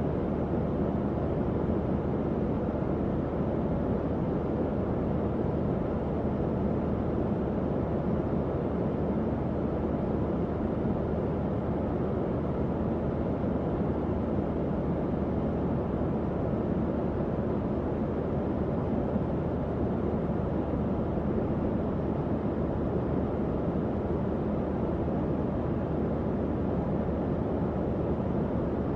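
Tower fan running steadily: an even, low-pitched rush of moving air with a faint motor hum underneath.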